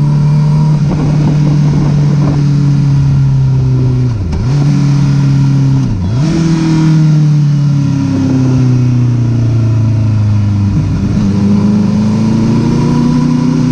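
Honda CBR1000RR's inline-four engine running under way, with two brief dips in the engine note about four and six seconds in. The pitch then falls slowly as the bike slows, and rises again near the end as it accelerates, all over a steady rush of wind noise.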